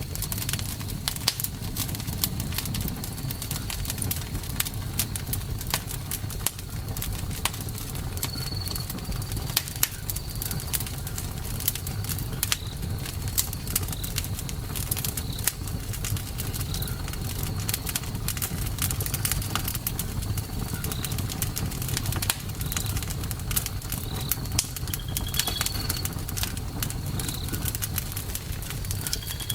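Campfire burning, with frequent irregular crackles and pops from the wood over a steady low rumble of the flames. Short high chirps sound every second or two.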